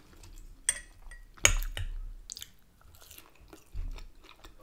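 A person chewing and biting food close to the microphone, with a few sharp crunchy bites among softer mouth sounds; the loudest bite comes about a second and a half in.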